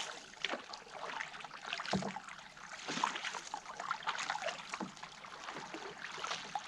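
Canoe paddling on a lake: irregular splashes and trickling of water from paddle strokes beside the hull, with a dull knock about two seconds in.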